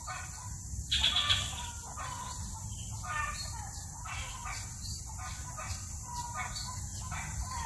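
Coucal chicks calling: a run of short, repeated calls, the loudest about a second in.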